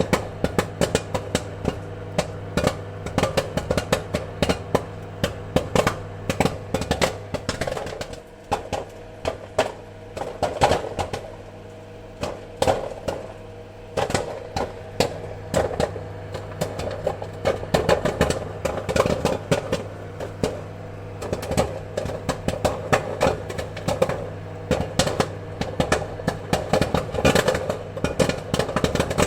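Popcorn kernels popping in quick, irregular pops, sometimes several at once, over a steady low hum.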